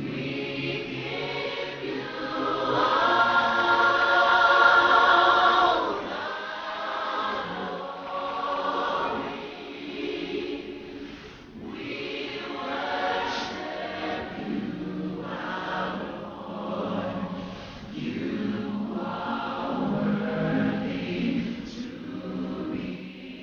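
A choir singing in phrases that swell and fade, loudest in the first few seconds.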